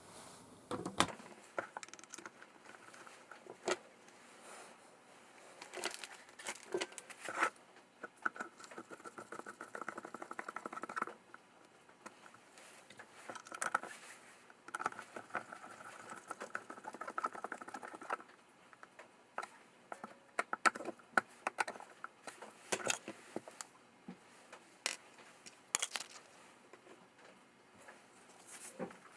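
Small scooter parts and hand tools being handled on a workbench: irregular clicks and taps, with two stretches of rapid scratching or rattling lasting a few seconds each.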